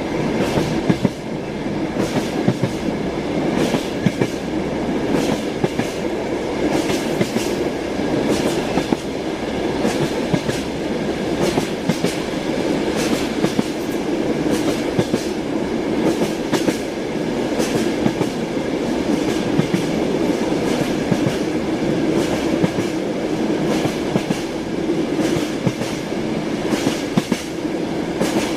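Train running at speed: wheels clicking over rail joints in irregular knocks over a steady rumble, with a faint steady whine above.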